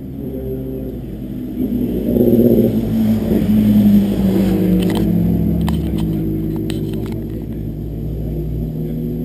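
Sports car engine accelerating, its note swelling loudest a few seconds in, then easing off and slowly dropping in pitch and level, with a few sharp clicks midway.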